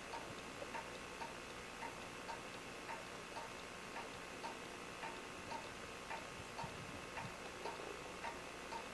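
A clock ticking steadily and faintly, about two ticks a second.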